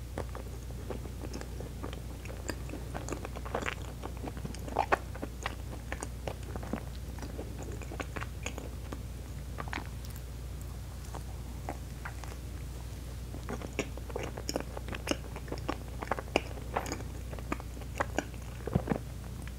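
Close-up eating sounds of a honey-pot Baumkuchen, a soft layered cake filled with cream: bites, wet chewing and mouth clicks, coming in clusters with short pauses between them.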